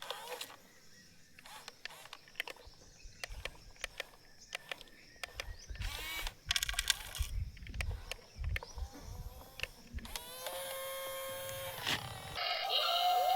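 Small electric motor of an RC toy vehicle whirring, with many short clicks and knocks of plastic parts. Near the end a steady electronic tone sounds for about a second and a half.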